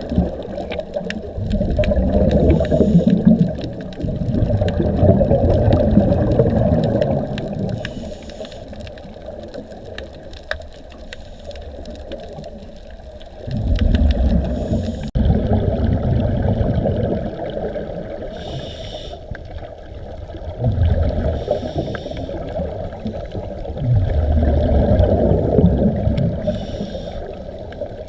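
Muffled underwater sound of a scuba diver breathing through a regulator: bubbles surging in low rushes that last a few seconds and fade, with short hissy breaths in between.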